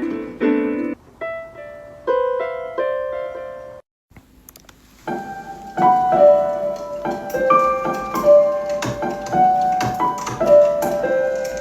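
Piano music: separate notes ringing out and fading, a short break about four seconds in, then a busier melody with several notes at once.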